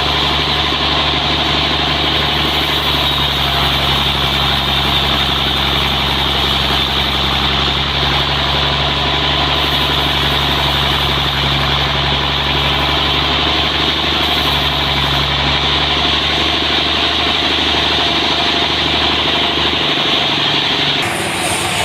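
Sawmill machinery running steadily: a loud, even engine drone with a hiss above it. The low drone drops away about a second before the end.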